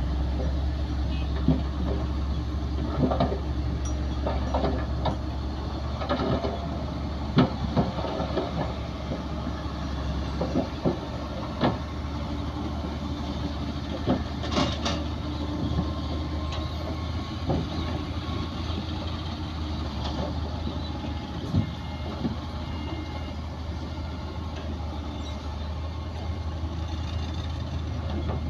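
Heavy diesel engines of a bulldozer and dump trucks running steadily with a low drone. Short sharp knocks come through it now and then, mostly in the first two-thirds.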